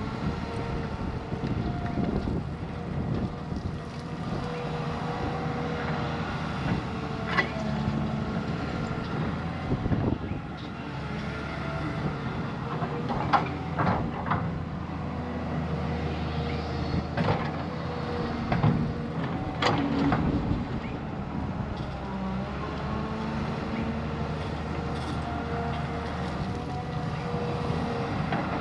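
Heavy diesel earthmoving machine running steadily, its engine note shifting slightly under load, with several sharp knocks scattered through.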